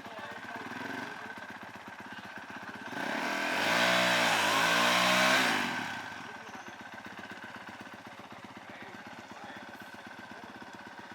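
Small racing engine of a dirt bike, four-wheeler or go-kart passing close under hard throttle, loud for about three seconds with its pitch bending as it goes by. Engines drone steadily farther off before and after.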